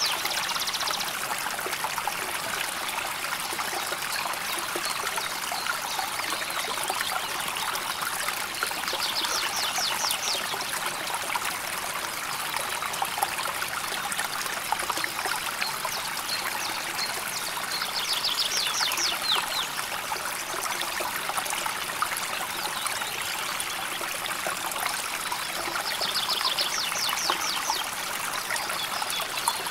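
River water flowing and trickling steadily. A short, high, rapid trill sounds three times over it, about every eight to nine seconds.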